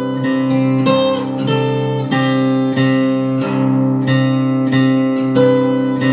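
Background music: acoustic guitar strumming chords, with a new chord or pluck about every second over held notes.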